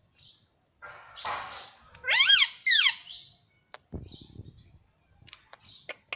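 Ringneck parrot vocalising: a harsh, noisy call about a second in, then two loud calls that rise and fall in pitch, followed by a few sharp clicks.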